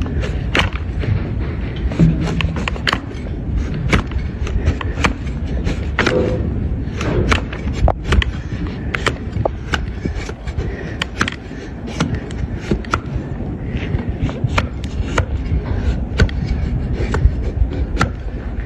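Donkey hoof being trimmed: sharp cutting and knocking sounds on the hard hoof horn, coming irregularly about once or twice a second over a steady low rumble.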